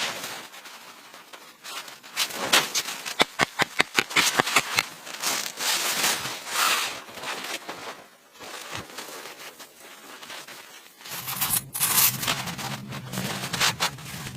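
Close rustling, scraping and crunching handling noises, with a quick run of sharp crunches or snaps about two to five seconds in. A low rumble joins near the end.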